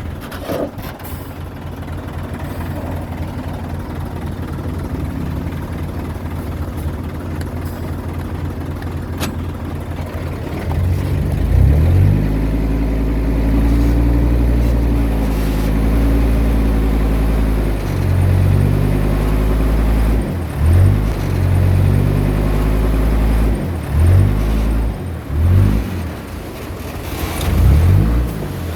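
Komatsu bulldozer's diesel engine running steadily at low revs, then revving up hard about ten seconds in. It then drops and rises in revs several times as the dozer works.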